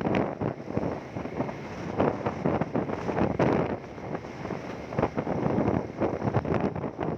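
Wind buffeting the microphone of a rider on a moving motorcycle, a gusting rush that swells and dips every second or so.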